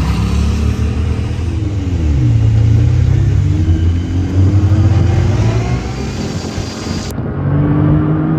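Side-by-side UTV engine running under load through the dunes. Its pitch drops about two seconds in, climbs steadily, falls off again around six seconds and picks back up. About seven seconds in the sound turns abruptly duller.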